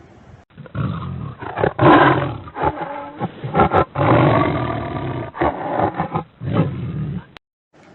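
Tiger roaring: a string of roars of varying strength that starts just under a second in and cuts off abruptly near the end.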